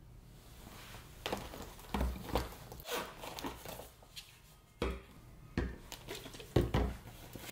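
Things being handled in a small room: a string of irregular knocks, taps and rustles, several with a low thump, the loudest near the end.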